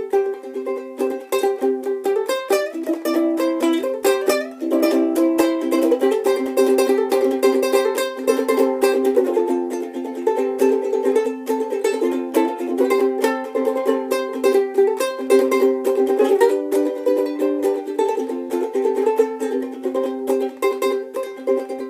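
Solo ukulele playing a fast instrumental break, quick picked notes over a steady ringing low note.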